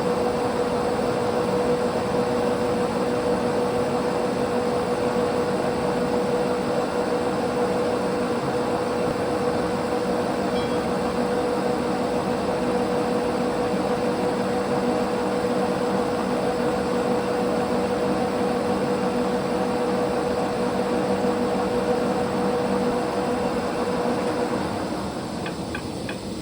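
A large, heavy metal lathe running a turning pass on a rod with a freshly swapped cutting insert: a steady mechanical running sound with a constant hum-like tone. It winds down and stops near the end.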